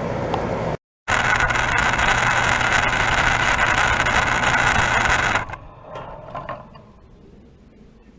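Outdoor condensing unit of a Bryant Legacy Series central air conditioner with a Copeland scroll compressor, running with a steady hum and fan rush, then shutting down abruptly about five seconds in, leaving a few faint clicks as it winds down. The sound cuts out completely for a moment just before a second in.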